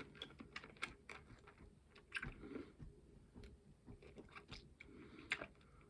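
Faint chewing and crunching of a hard candy in the mouth, scattered small clicks and crackles.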